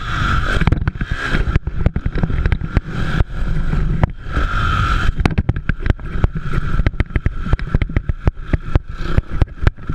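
Motocross dirt bike engines running, with heavy crackling and buffeting on the microphone.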